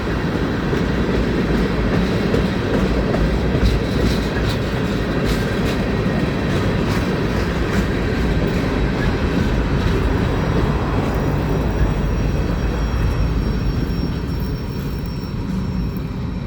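Freight train cars rolling past: a steady rumble of steel wheels on rail, with clicks as the wheels cross rail joints and a thin high ring from the wheels. The noise eases slightly near the end.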